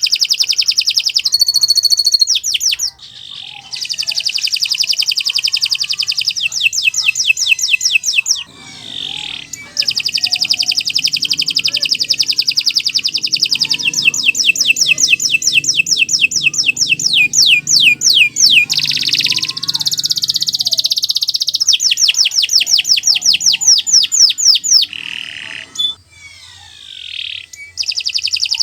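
Canary singing a long, loud song of fast rolling trills, with notes repeated in quick even runs, broken by brief pauses about three seconds in, about nine seconds in and near the end.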